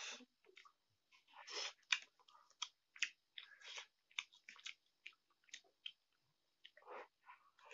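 Close-up mouth sounds of a person eating instant noodles: wet chewing and lip smacks, heard as a string of short, irregular clicks and squelches.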